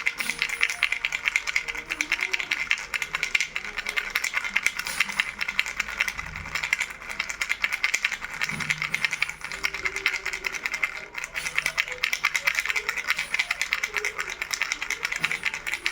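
Baby rattle shaken continuously, a dense, rapid rattling of small beads with no pauses.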